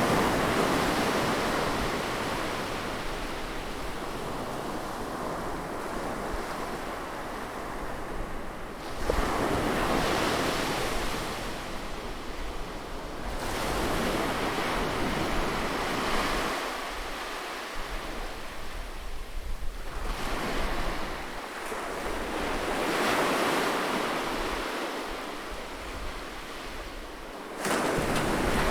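Ocean surf on a sandy beach: waves break and wash up the shore, swelling and fading every few seconds, with a sharp surge about nine seconds in and another near the end. Under it runs a low rumble of wind on the microphone.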